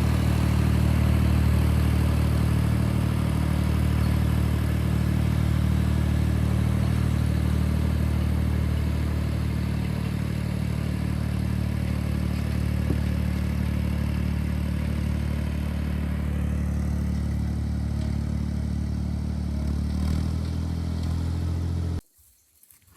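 Ford 3930 tractor's three-cylinder diesel engine running steadily, easing a little near the end before the sound cuts off abruptly.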